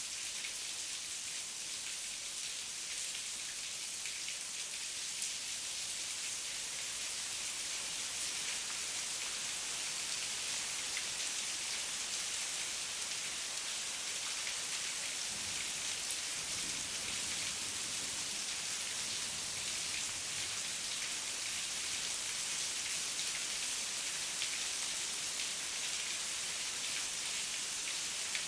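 Heavy rain falling steadily: a dense, even hiss of drops, with a faint low rumble swelling about halfway through.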